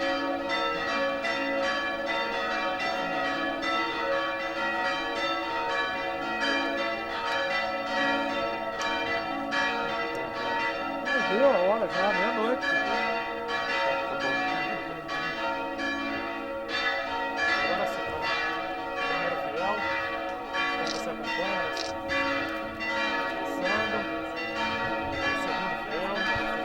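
Church bells ringing continuously, with many strikes a second that overlap so the tones hang on.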